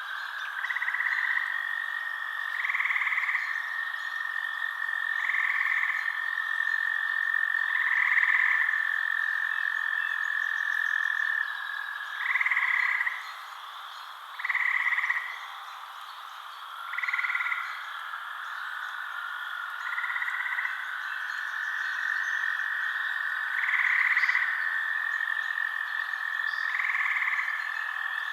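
Frogs calling at night: calls about a second long repeat every two to three seconds over a steady high trill. The trill drops out briefly around the middle.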